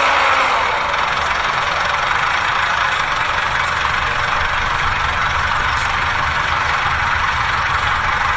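A heavy vehicle's engine running steadily at idle, a constant rumble with a dense hiss on top.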